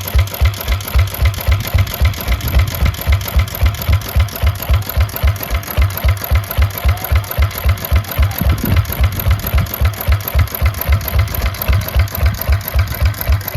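Old engine running slowly and steadily, with low, even firing beats at about four a second.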